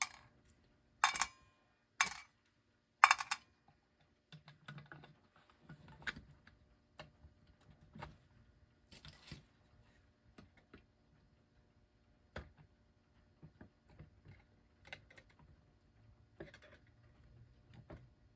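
Small metal tools and clock parts clicking and tapping while working at a clock's tight hands: three sharp metallic clicks about a second apart near the start, then light scattered ticks and taps.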